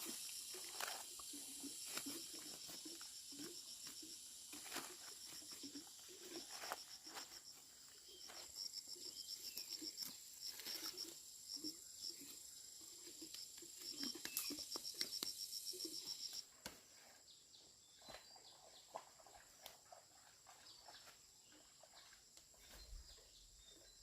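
Outdoor ambience: a high, rapidly pulsing chirring over a steady high tone, with scattered light knocks and taps. The chirring stops about two-thirds of the way through and the sound drops quieter.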